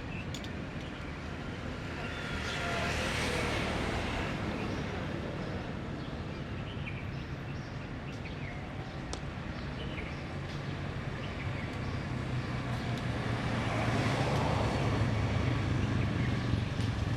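Outdoor background noise: a steady low hum with two broad swells, one about two to four seconds in and another from about thirteen seconds, with a few faint clicks.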